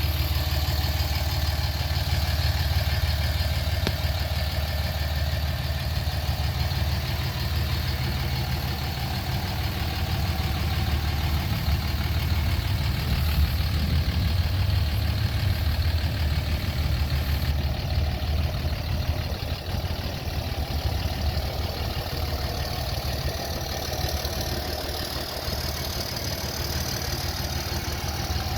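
A 2005 Dodge Ram 2500's 5.9-litre inline-six Cummins high-output turbo diesel idling steadily.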